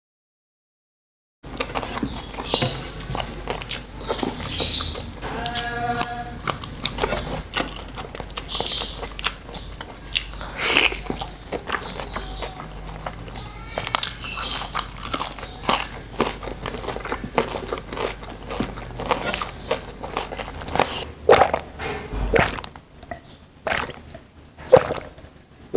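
Close-up eating sounds: chewing, lip-smacking and crunching of food picked up by hand, in many irregular short clicks. Near the end come a few separate sharper sounds as water is gulped from a glass.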